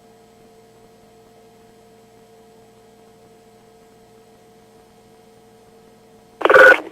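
Faint, steady electrical hum on the radio audio line. Near the end a brief loud burst cuts in for about half a second.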